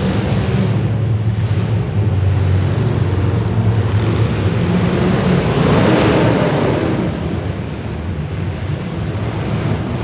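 Demolition derby cars' engines running and revving together in a loud, steady rumble that swells about six seconds in.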